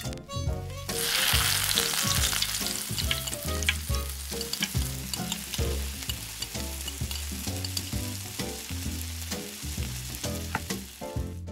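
Food frying in hot oil in a miniature pan, a steady sizzle that starts about a second in and cuts off near the end, with background music underneath.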